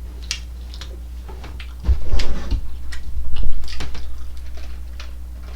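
Close-up eating sounds: chewing and scattered wet mouth clicks, louder in a stretch of bumps and clicks from about two to four seconds in, over a steady low hum.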